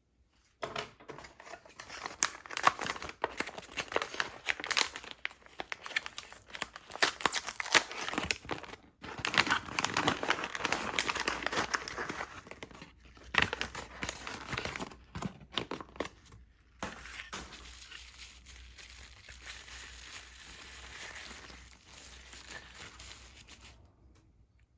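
Packaging being handled and unwrapped: crinkling and crackling with sharp snaps and tearing, in on-and-off bursts with short pauses, softer and steadier near the end.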